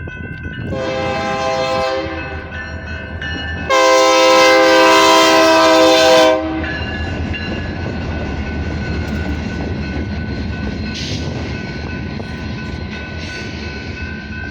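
Train horn blowing as the train goes through a road crossing: a blast about a second in, then a longer, louder blast from about 4 to 6 seconds in. After that the train runs past with a steady rumble and clickety-clack of wheels on the rail joints.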